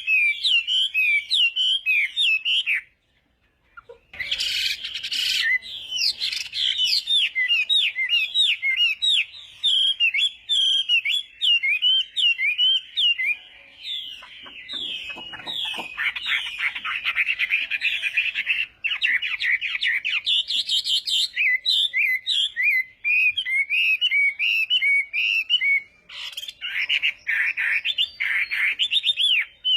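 Chinese hwamei singing a long, fast run of loud, varied whistled notes and trills, with a break of about a second roughly three seconds in.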